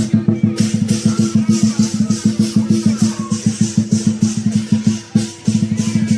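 Lion dance percussion: a big drum beaten in a fast, even roll of strokes, with crashing cymbals on the beats. The beating drops out briefly about five seconds in, then resumes.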